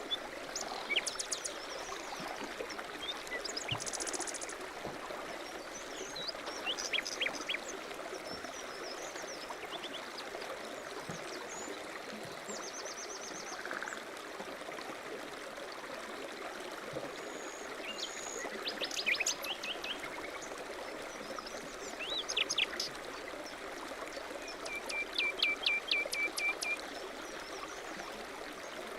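A stream running steadily, with birds calling over it: scattered short chirps and quick trills, including a fast run of repeated notes near the end.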